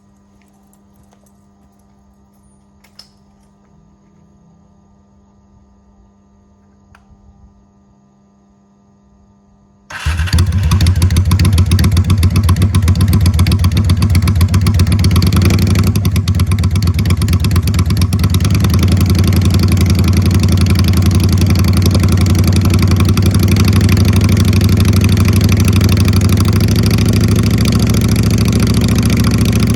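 Faint steady hum for about ten seconds. Then a Honda Steed V-twin with a Marving straight-pipe exhaust starts and idles loudly, with a deep, thick exhaust note.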